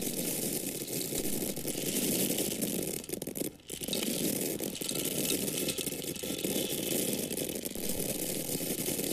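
Dry grains falling and pouring onto a surface, making a dense, steady rattling patter that thins out briefly about three and a half seconds in.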